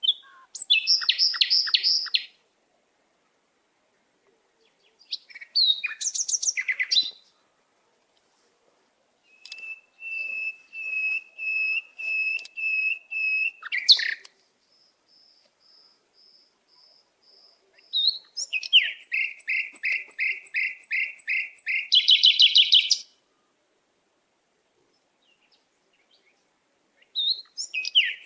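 Songbird singing in separate phrases of rapidly repeated high notes and trills, each a few seconds long, with quiet pauses between them.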